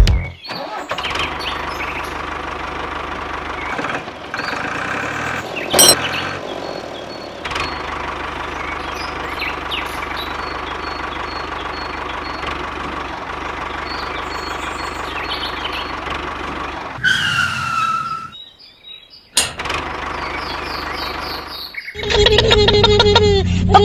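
A small engine runs steadily for most of the time, with birds chirping faintly over it. It stops near the end, and a burst of music comes in.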